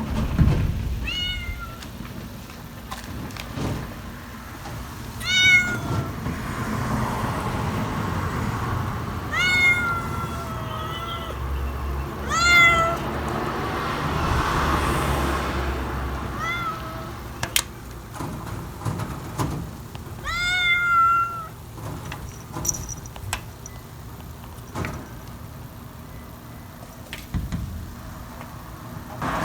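Domestic cat meowing about six times, each meow a short call that rises then falls in pitch, the longer ones around ten and twenty-one seconds in.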